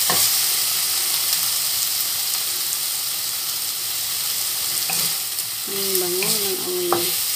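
Pork belly, onion and garlic sizzling in hot oil in a nonstick pan while a wooden spatula stirs them, with a few sharp clicks of the spatula against the pan.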